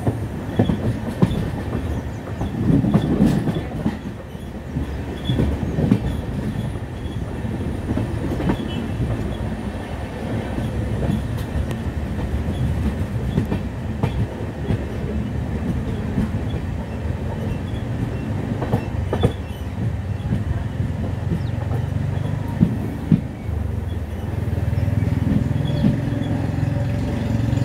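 Podhigai Express passenger coaches running along the track, heard from a coach window: a steady rumble of wheels on rail with irregular clickety-clack from the rail joints, louder in the last few seconds.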